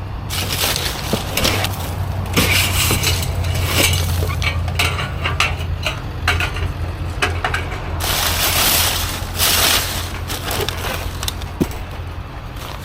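Junk being rummaged through and tossed about in a dumpster: irregular clattering, clinks and crunches of debris over a steady low hum.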